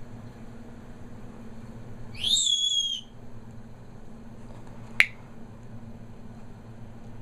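A pet parrot gives one loud whistled call, under a second long, rising and then falling in pitch. A single sharp click follows about three seconds later, over a steady low hum.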